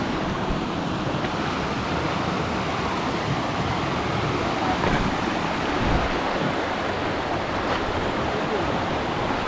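Steady rushing noise at an even level, with faint voices in the background.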